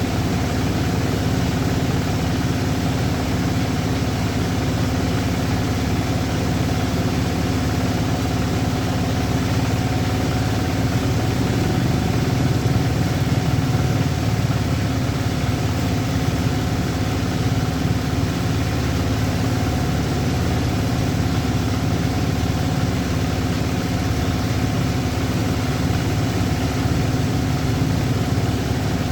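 An engine running steadily at an even pitch, with no revving.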